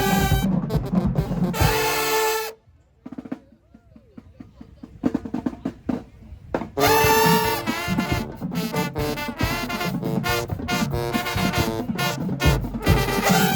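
High school marching band playing brass over drums. The band cuts off sharply about two and a half seconds in, leaving a near-silent gap with scattered drum strokes, then the full brass and drums come back in about seven seconds in.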